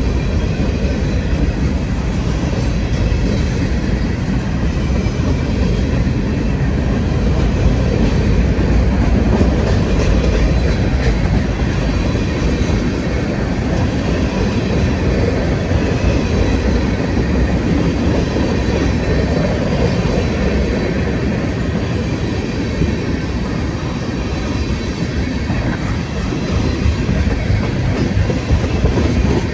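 Freight train cars rolling past at steady speed: a continuous, loud rumble of steel wheels on rail.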